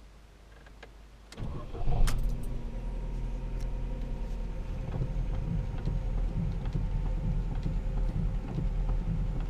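Ford Focus II car engine cranking and catching about a second and a half in, flaring briefly, then settling into a steady idle, with a few faint clicks over it.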